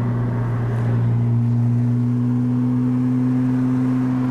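Porsche 981's flat-six engine through an Armytrix valved titanium exhaust with headers and sport catalytic converters, droning steadily under way and heard from inside the car; its pitch rises slightly about a second in.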